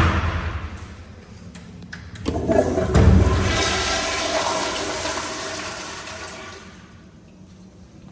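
A toilet flushing: a sharp knock right at the start, then about two seconds in a loud rush of water that fades away over the next four or five seconds.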